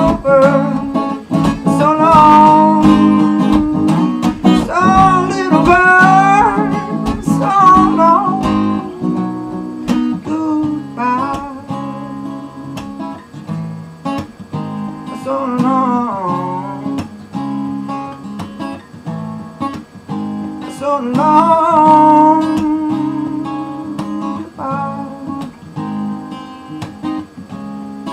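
Acoustic guitar strummed steadily, with a voice singing over it in long phrases near the start and in two shorter stretches later.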